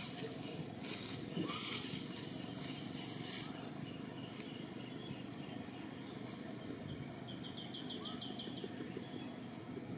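Outdoor background noise with crackling rustles in the first few seconds, and a short trill of about ten quick high chirps late on.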